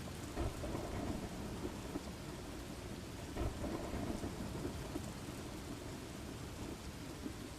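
Steady rain with low rolling thunder, the rumble swelling about half a second in and again around three and a half seconds.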